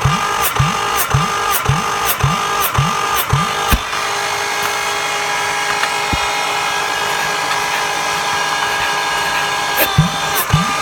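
Kia G6BV 2.5 V6 engine being turned over for a compression test: a rhythmic labouring about twice a second as the cylinders compress. After about four seconds it changes to a steady, even whir, and the pulsing returns near the end.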